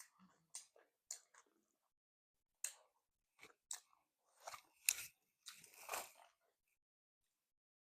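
A person chewing and crunching food in a run of short, crisp crunches, ending about six and a half seconds in.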